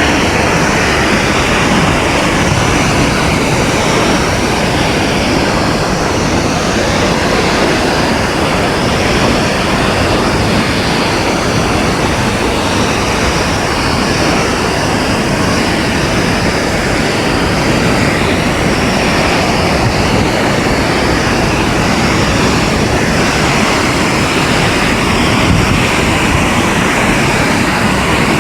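Multnomah Falls: a waterfall's steady rushing of falling water, a loud even noise without breaks.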